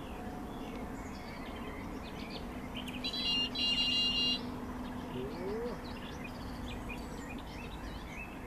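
Birds chirping in the background, with a loud, steady, high-pitched tone lasting just over a second about three seconds in.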